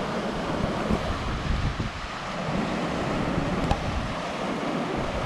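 Wind buffeting the microphone in gusts, with ocean surf breaking below.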